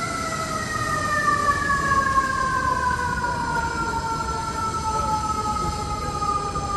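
Emergency vehicle siren in one long wail, its pitch falling slowly and steadily, over a steady wash of city street noise.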